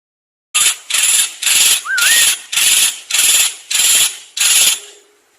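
A songbird's harsh rasping call repeated seven times, about every 0.6 s, with a short wavering whistle over the third rasp; the last rasp trails off.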